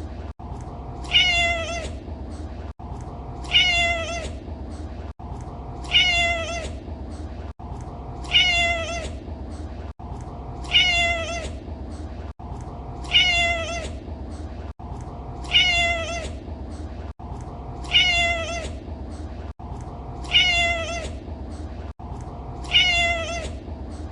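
Domestic cat meowing: the same short meow repeated at even spacing about every two and a half seconds, each ending with a slight drop in pitch, over a steady low hum.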